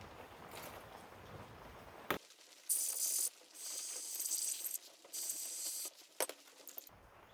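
Three short hissing bursts of pressurized spray on carburetor parts being cleaned out. A couple of sharp clicks come between them, about 2 s and 6 s in.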